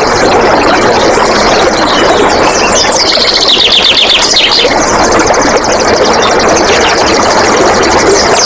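Steady rush of flowing water with wild birds singing over it; about three seconds in, a bird gives a rapid, high trill of repeated notes lasting about two seconds.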